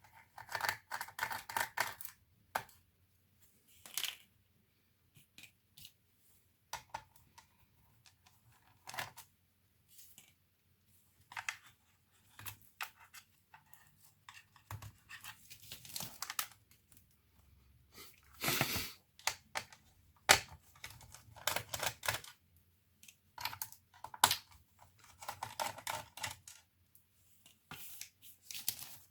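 Hands working on a laptop's plastic case and parts: irregular clicks, taps and scratchy scraping, with a longer rasp about two-thirds of the way through.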